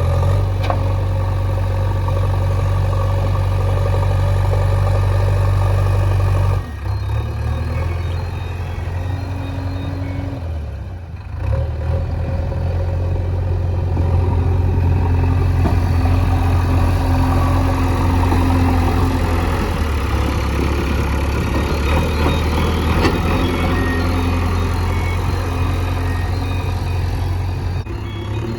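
JCB 3DX backhoe loader's diesel engine running under work. Its steady low hum shifts about six and a half seconds in, dips briefly around eleven seconds, then runs steady again.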